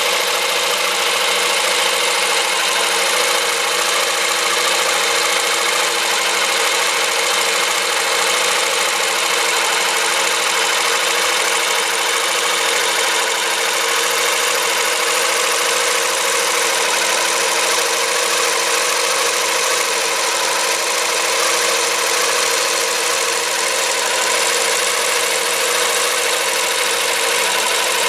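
Small electric motor taken from a cordless drill, running steadily at one speed as it turns a scale-model engine's pistons through a drive shaft, with a high steady whir.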